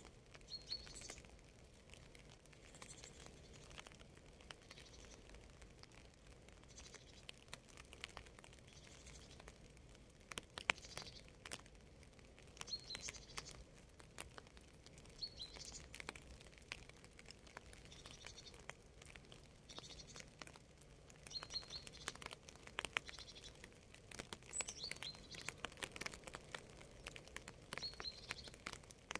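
Faint rain with drops pattering and dripping in irregular ticks, and a small bird chirping short phrases every couple of seconds.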